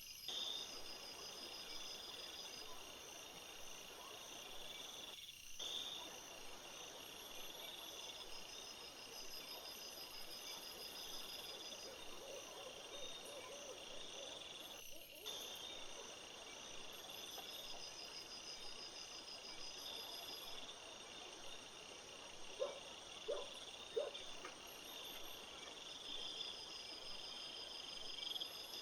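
Crickets and other insects chirping and trilling steadily in a faint chorus, with evenly pulsed chirp trains over a continuous high trill. The sound cuts out briefly twice. Near the end come three short, louder, lower sounds.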